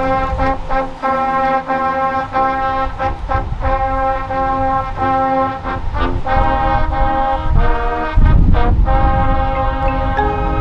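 High school marching band playing loud held brass chords punctuated by percussion hits; the low end gets heavier about eight seconds in.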